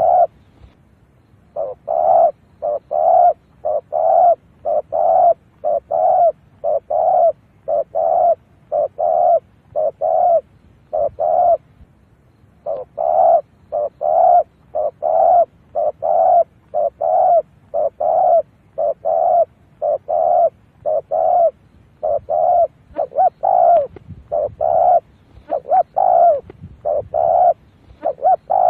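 Spotted dove (cu gáy) cooing over and over as a decoy call to draw in wild doves. The short coos come in quick runs, about two a second, with one brief pause about twelve seconds in.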